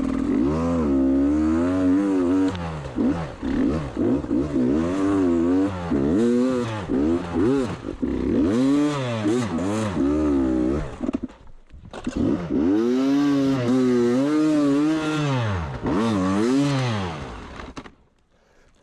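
Beta 300 RR two-stroke enduro bike engine revving up and down again and again under throttle, the pitch rising and falling every second or so. It drops away briefly about eleven seconds in, picks up again, and falls away near the end.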